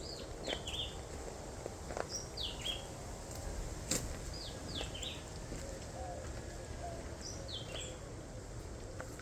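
A bird calling outdoors, repeating a short phrase of two or three quick high notes that step downward, four times about every two seconds. A few sharp clicks come in between.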